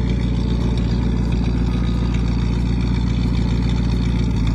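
1952 Buick Special's straight-eight engine idling steadily, running well.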